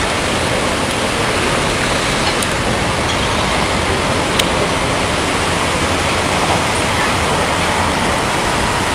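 Steady, loud rushing noise of typhoon wind and rain.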